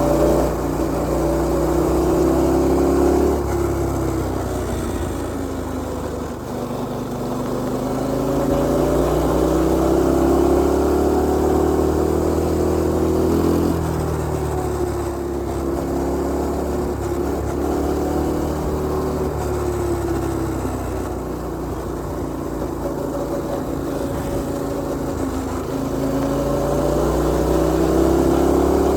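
Mini bike's small single-cylinder four-stroke engine running under load while riding, its pitch climbing and falling several times as the throttle is opened and eased off.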